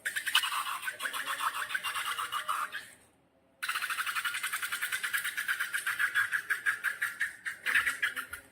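Slime being worked by hand: a fast run of sticky, wet clicks, about ten a second, that stops for half a second about three seconds in and then carries on.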